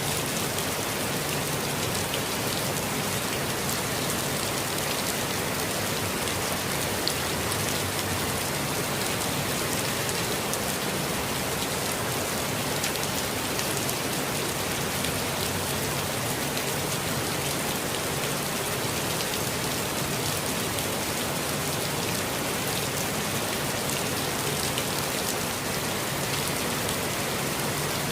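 Steady rainfall, an even hiss of rain with fine scattered drop ticks, holding constant throughout.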